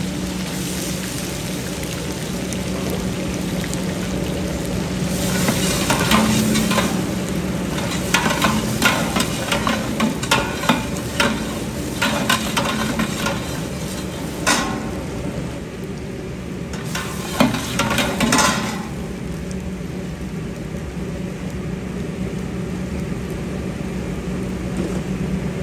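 Grated ginger frying in hot ghee in a large stainless-steel pot, a steady sizzle throughout. Through the middle stretch a spatula scrapes and knocks against the pot in quick clusters of clicks. A steady low hum runs underneath.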